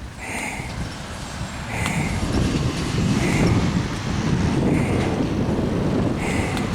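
Monster truck engine rumbling, growing louder about two seconds in. A short higher sound repeats about every second and a half over it.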